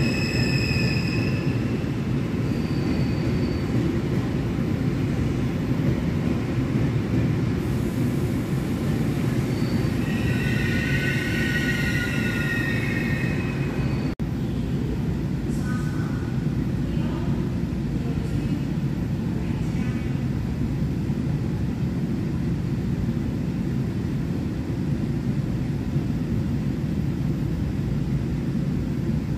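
Train on the adjacent track heard from inside a stopped commuter train car: a steady low rumble, with wavering metallic wheel squeal about ten to thirteen seconds in.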